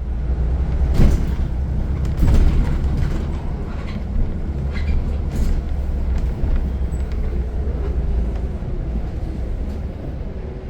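Ride noise inside a moving transit bus: a steady low rumble of engine and road, with rattles and clunks, the loudest about a second in and again at about two and a half seconds.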